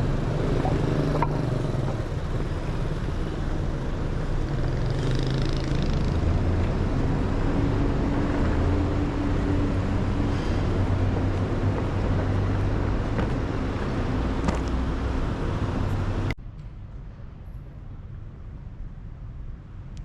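Road traffic: vehicle engines running and passing, a steady low rumble with shifting engine hum. About sixteen seconds in it cuts off abruptly, leaving a much quieter background.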